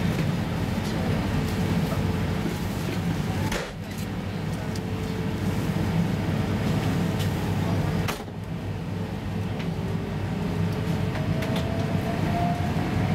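Inside the carriage of a VR Sm2 electric commuter train pulling out of a station: a steady low rumble from the running gear, with a faint motor whine that rises in pitch near the end as the train gathers speed. The level dips briefly twice, about four and eight seconds in.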